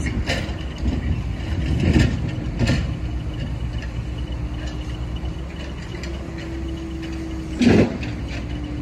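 Freight cars of a slow-moving work train rolling past close by: a steady low rumble from the wheels on the rails, broken by a few knocks and clanks. The loudest knock comes about three-quarters of the way through.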